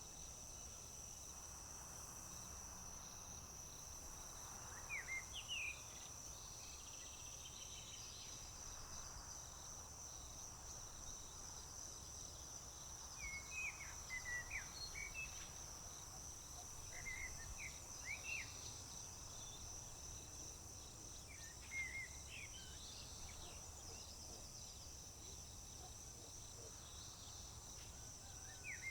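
Crickets trilling steadily at a high pitch, with short bird chirps breaking in now and then.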